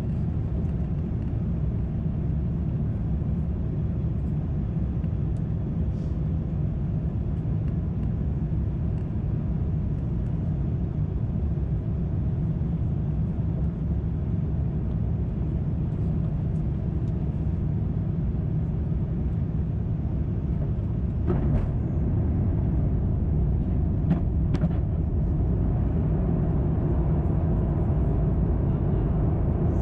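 Steady low cabin roar of an Airbus A350-900 in flight, engine and airflow noise heard from a window seat. Two faint clicks come about two-thirds of the way through, and the roar grows slightly louder after the first.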